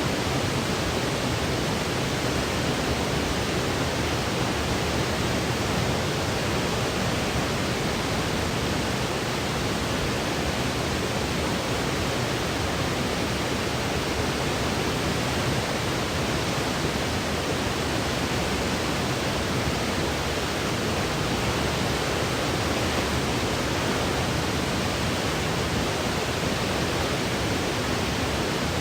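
Steady electronic white noise: an even, unchanging hiss.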